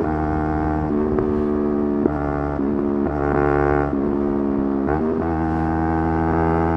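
Yamaha R3's 321 cc parallel-twin engine running hard at high revs, its pitch holding level and then jumping abruptly to a new pitch several times.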